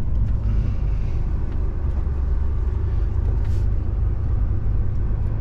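DAF truck's diesel engine running under light load with road rumble, heard from inside the cab as a steady low drone.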